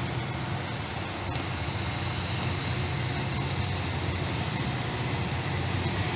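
Caltrain commuter train with an F40PH-2CAT diesel locomotive, a steady low rumble that slowly gets louder as the train approaches.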